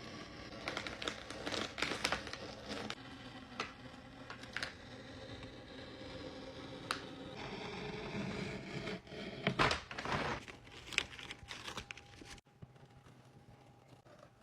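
Paper being cut and ripped: a run of crinkling, scratchy rasps and sharp snaps, busiest and loudest a little past the middle, then going much quieter for the last couple of seconds.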